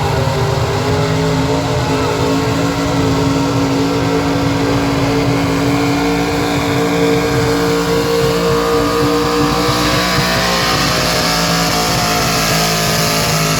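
Chevy K20 pro street pulling truck's engine at full throttle under heavy load as it drags a pulling sled, held at a steady high pitch.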